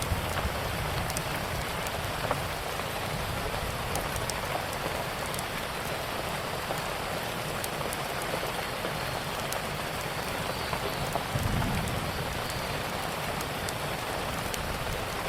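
Steady rain falling on a surface, with scattered sharp crackles from a wood fire. There is a brief low rumble a little after the middle.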